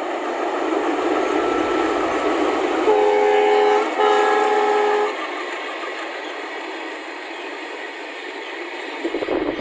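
Indian Railways ALCO diesel locomotive's engine chugging, with two horn blasts of about a second each, one straight after the other, near the middle; the horn sounds several notes at once.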